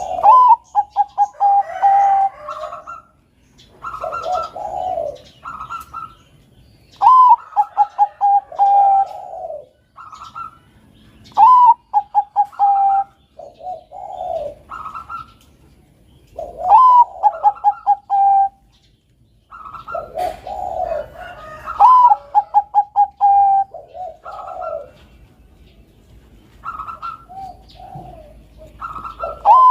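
Zebra dove (perkutut), of the Thai 'Bangkok' singing strain, cooing. Each phrase starts with a rising note and runs into a quick string of short, even coos, and the phrases repeat about every four to five seconds. Lower coos fill the gaps between phrases.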